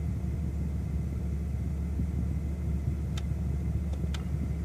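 BMW M car's engine idling steadily, a low rumble heard from inside the cabin. Two light clicks come near the end.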